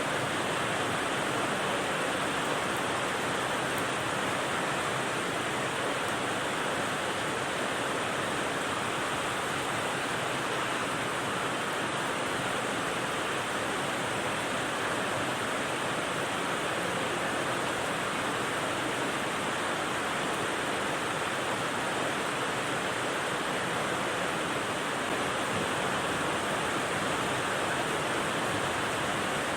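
Steady rain noise, an even hiss without distinct drops or changes, of the kind used as white noise for sleep.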